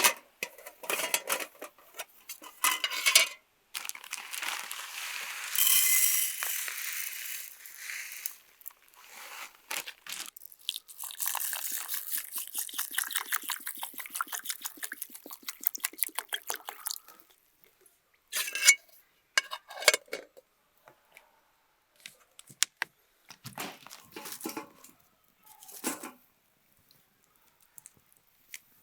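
Camp cooking preparation: utensils and food being handled, with clicks and knocks, a loud rushing burst about five seconds in, and then a fast run of even scraping or cutting strokes lasting several seconds, followed by scattered knocks.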